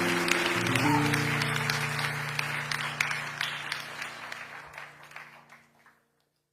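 A worship band's sustained final chord ringing out under audience applause, the whole sound fading away to silence about six seconds in.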